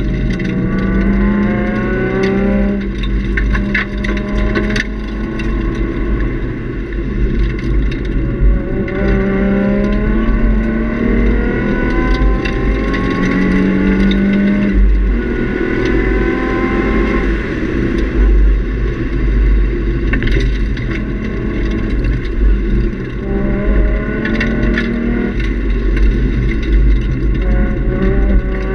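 2003 Nissan 350Z's 3.5-litre V6 with a Nismo catback exhaust, heard inside the cabin under hard track driving. It revs up again and again, rising in pitch and dropping back at each shift or lift. Underneath are heavy road and wind rumble and scattered sharp rattles.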